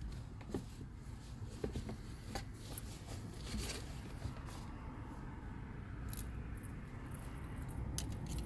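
Scattered small clicks and short rustles of hands handling small objects, over a steady low hum.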